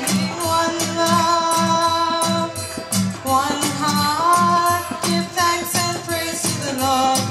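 A female singer holding long notes and gliding up between them, over guitar accompaniment with a steady rhythmic pulse.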